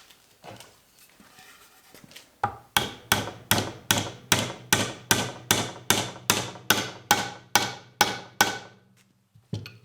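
A hammer tapping glued wooden dowels down into their holes in an oak table part: a steady run of sharp strikes, about three a second, starting a couple of seconds in and stopping shortly before the end.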